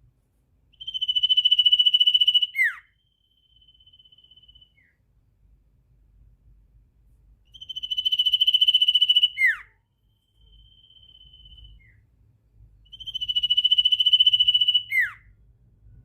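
Sirtu bird singing three rapid trills on one high note, each about two seconds long and ending in a quick downward sweep. A fainter, steady high note follows each trill.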